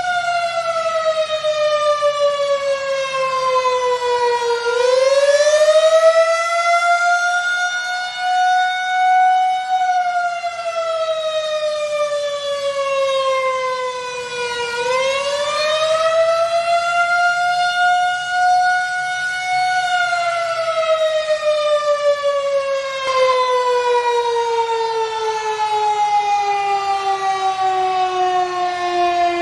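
Federal Signal 2001 tornado siren sounding a wail. Its pitch falls and rises twice, about every ten seconds, then slides steadily lower through the last third.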